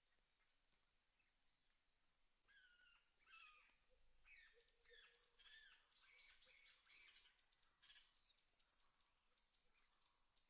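Faint bird calls: a run of short down-slurred and arched chirps starting about two and a half seconds in, over a steady high insect buzz.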